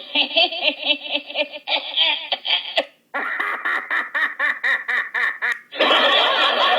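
Comedy sound-effect clips played back to back: a rapid, pulsing, duck-like quacking cackle, a brief break about three seconds in, more rapid pulsing cackles, then near the end a dense chatter of laughter.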